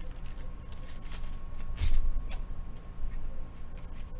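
Trading cards and pack wrappers being handled on a table: several soft rustles and taps, with one louder thump about two seconds in.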